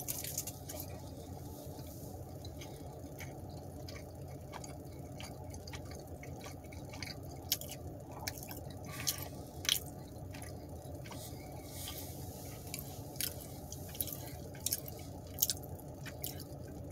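Close-up chewing of a cheese stick, wet mouth clicks scattered through, over a steady low hum.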